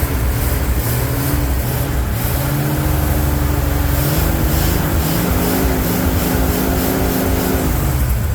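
Ford 300 cubic-inch (4.9 L) inline-six engine running with no air cleaner, while a hand is held over the carburetor throat to clear it up. The engine pitch drifts slowly upward and eases off near the end. The engine has a suspected large vacuum leak.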